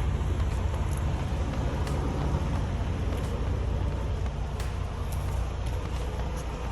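Vehicle engine idling: a steady low rumble with faint occasional ticks.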